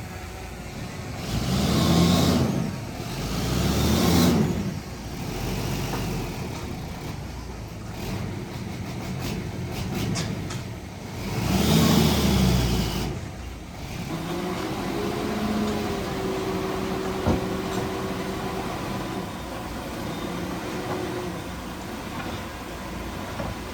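Heavy diesel machinery engine revving up and falling back in repeated loud surges, then settling to a steadier, quieter running tone about two-thirds of the way through, with one sharp click.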